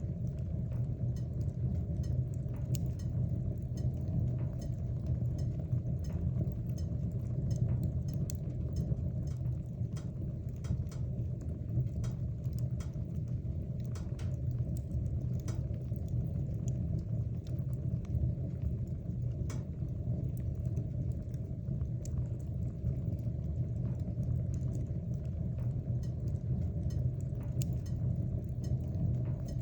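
Wood fire burning in a fireplace: a steady low rumble of the flames with frequent small, irregular crackles and pops from the burning wood.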